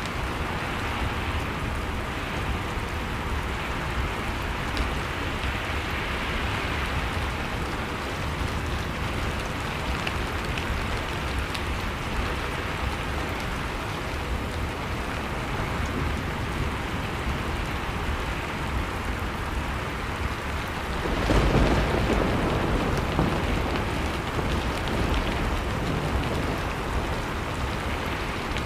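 Steady blizzard wind noise with faint crackles from a wood fire. About 21 seconds in, a louder, deeper rumble swells up and fades over several seconds.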